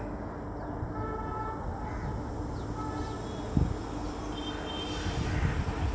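Rajdhani Express train hauled by a WAP-5 electric locomotive rolling slowly toward the listener: a steady low rumble, with a few faint short high tones.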